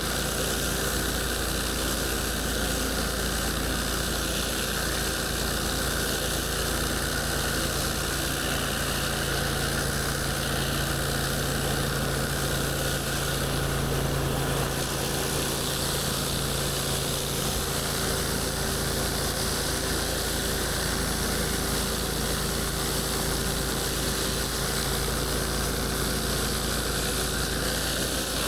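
Gas-engine pressure washer running steadily, with an even hiss of high-pressure water spraying. The sound holds level and unchanged throughout.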